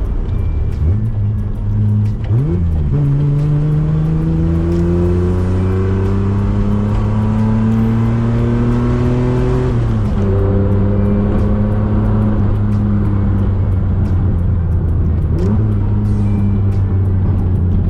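Nissan Skyline engine accelerating under load, its revs climbing steadily for several seconds. Then it drops at a gear change about ten seconds in and runs on at steadier revs.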